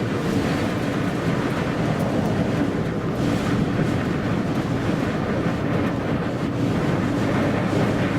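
Loud, steady wind noise from a gale of around 50 miles an hour blowing across the microphone.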